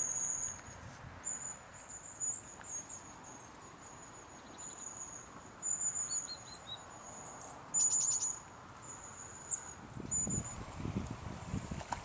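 Small birds calling with high, thin, repeated notes, with a few short louder calls; low rumbling handling or footstep noise near the end.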